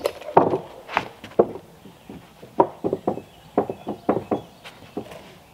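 Irregular series of wooden knocks and thumps, around fifteen over five seconds, the loudest about half a second in.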